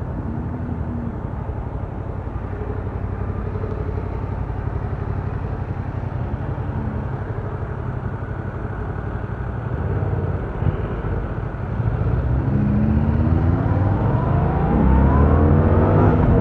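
2017 Yamaha MT-07's 689 cc parallel-twin engine through its stock exhaust, running at low, steady revs, then accelerating hard past the middle with the revs climbing steeply and dropping back near the end at a gear change.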